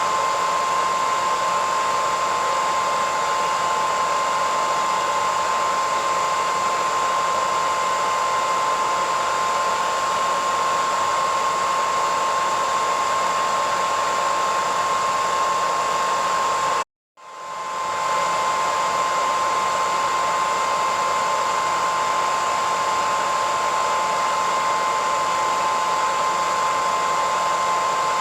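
Hair dryer running steadily: an even rush of blown air with a steady whine over it. About seventeen seconds in it cuts out to silence for a moment, then swells back up over a second.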